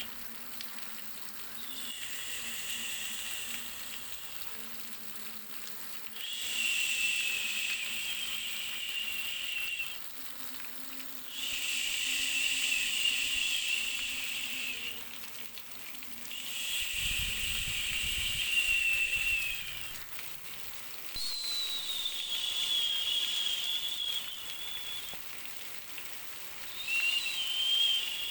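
Hissing noise in long swells, each about three to four seconds, returning roughly every five seconds over a faint steady hum, as played on a white-noise track for babies.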